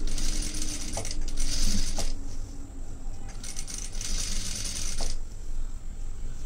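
Sewing machine stitching fabric in three short runs, each stopping with a click, over a steady low hum.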